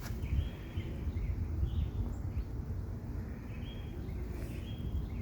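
Birds chirping faintly a few times over a steady low rumble.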